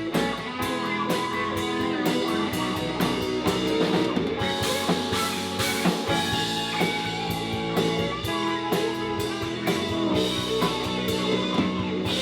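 Live band playing an instrumental break of a rock-country song: guitars over a drum kit keeping a steady beat, with no singing.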